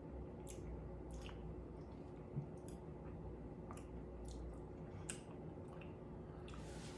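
Faint chewing of a soft peanut butter cup: scattered wet mouth clicks and smacks, with a sharper click about two and a half seconds in.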